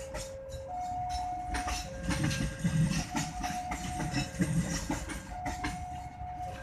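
Railway level-crossing warning alarm sounding a steady two-tone signal, the higher and lower tones taking turns about a second each, over the rumble and wheel clatter of a passing train.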